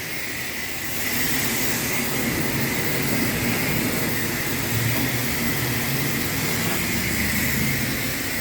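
Pressure washer wand spraying water in a steady hiss over a low pump hum, getting a little louder about a second in.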